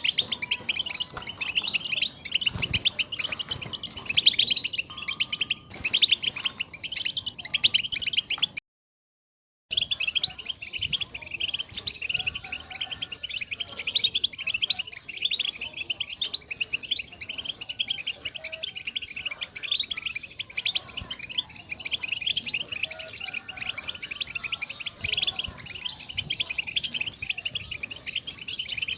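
European goldfinch song: fast, continuous twittering and tinkling trills, broken by a sudden second-long silence about nine seconds in.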